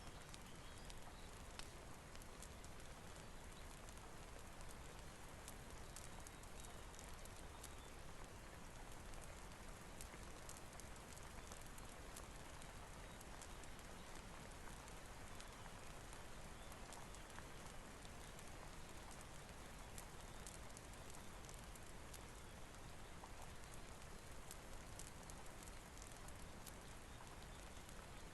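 Steady rainfall hiss with scattered sharp crackles and pops from a wood fire.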